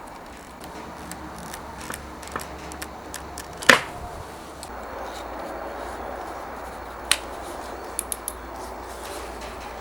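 Workshop handling sounds: a few sharp clicks and knocks of tools or parts being handled, the loudest near the middle and a smaller cluster of light ticks later, over a steady low background.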